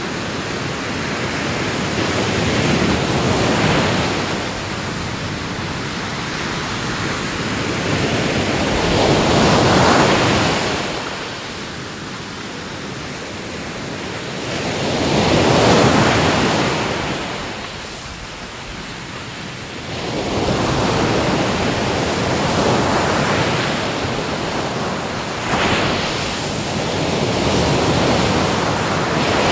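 Ocean waves surging in and drawing back, the wash of water rising and falling in slow swells every several seconds, loudest about a third of the way in and again just past halfway.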